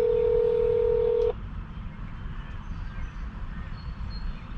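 Telephone call tone over a speakerphone: one steady mid-pitched tone that cuts off suddenly just over a second in, leaving a low background rumble.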